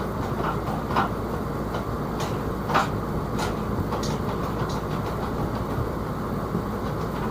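Steady mechanical rumble with a few sharp clicks and knocks, the loudest about three seconds in.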